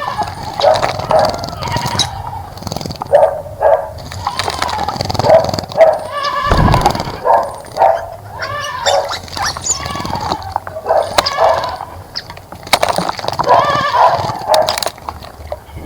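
Loud, repeated pitched animal calls, one after another throughout, from a domestic animal such as a goat or a dog.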